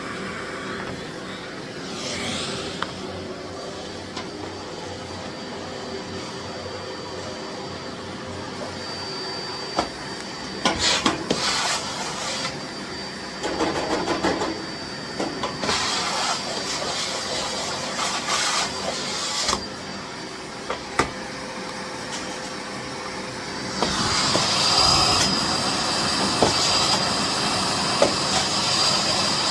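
Miele Blizzard CX1 bagless cylinder vacuum cleaner running steadily with a thin high whine, swelling louder several times in the middle and louder again for the last few seconds.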